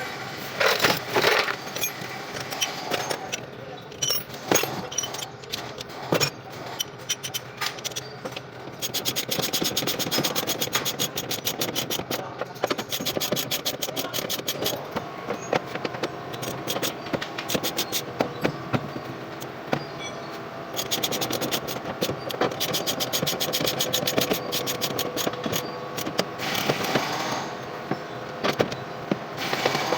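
Metal hand tools clinking, scraping and clicking on metal truck parts, with long runs of rapid ticking and scattered sharp knocks.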